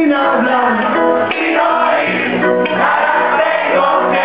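Reggae band playing live and loud, a dense ensemble with sustained pitched parts and no pause.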